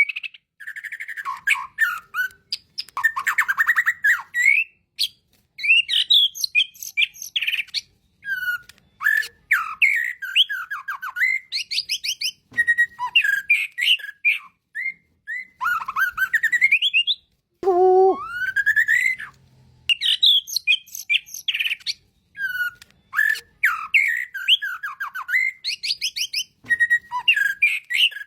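A songbird singing a long, varied song of loud whistles, rising and falling glides and rapid chirping trills, phrase after phrase with short pauses between. It is the kind of song used as a 'masteran' recording to teach other songbirds.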